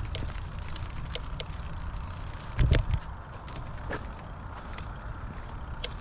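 Bicycle being ridden over a rough path: a steady low rumble with scattered sharp clicks and rattles, and one louder bump just under halfway through.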